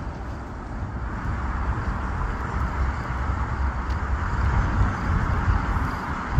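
GO Transit diesel-hauled commuter train approaching: a low steady rumble with a rushing noise above it, growing slowly louder.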